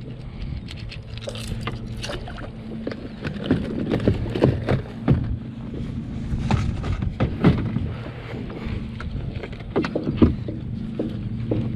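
Irregular knocks and clicks of fishing gear being handled in a kayak, over a steady low hum. The clicks come in clusters, busiest about four seconds in, around seven seconds and near ten seconds.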